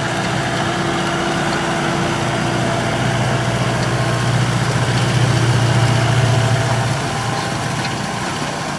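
Tractor engine running steadily. Its low drone swells louder for a few seconds in the middle, then eases off near the end.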